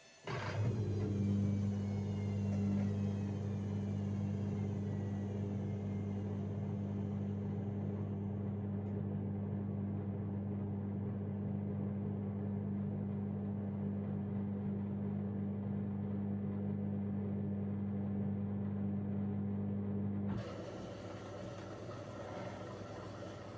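AEG Lavamat 6610 washing machine's pump switching on and running with a steady low hum, typical of the drain pump emptying the drum. It cuts out suddenly about twenty seconds in, leaving a quieter machine noise.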